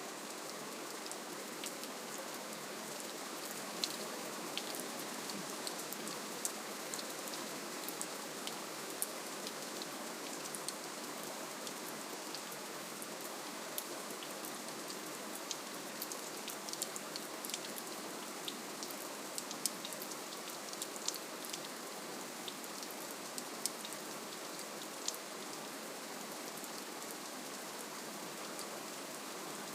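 Steady gentle rainfall: an even hiss with many small, sharp drop ticks scattered throughout.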